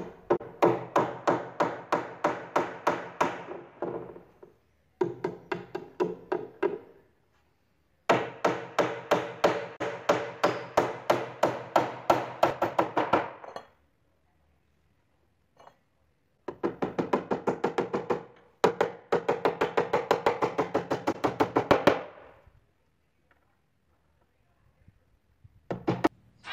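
Hammer driving nails into wooden boards: quick runs of ringing blows, about four a second, in five bursts of a few seconds each with short pauses between.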